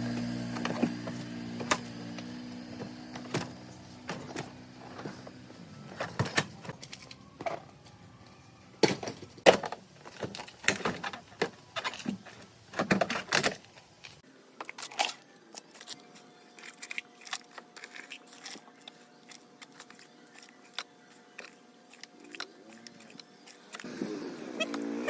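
Metal parts and hand tools clinking, knocking and clattering in irregular sharp hits. Near the end a power tool starts up with a rising whine.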